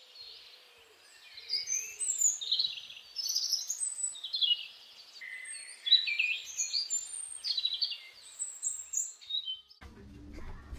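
Several songbirds chirping and calling together, with many short, quick, overlapping high chirps and whistled glides.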